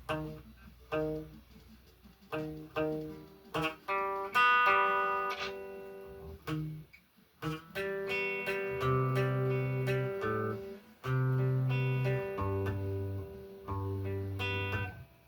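Guitar playing: single picked notes at first, then fuller chords that ring on over low sustained notes, with a short break about seven seconds in.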